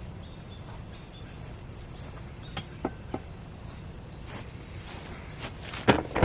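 Ford 1710 compact diesel tractor running with a steady low hum, with a few sharp clinks and knocks over it, the loudest near the end.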